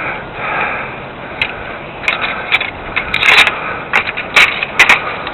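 A stick poking and scraping through tree branches and leaves. Irregular crackles and snaps grow busier from about two seconds in.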